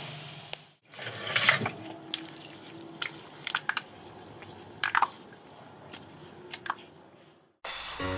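Liquid dripping and squelching: scattered sharp drips and splats over a faint fizzing hiss, cutting off suddenly near the end.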